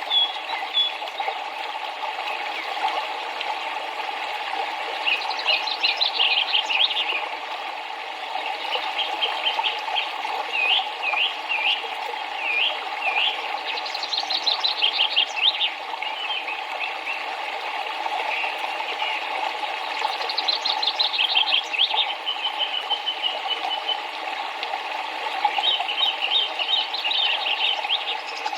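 Songbirds singing over the steady rush of river water. The birdsong comes in short phrases of quick chirps and upslurred whistles, repeated every few seconds.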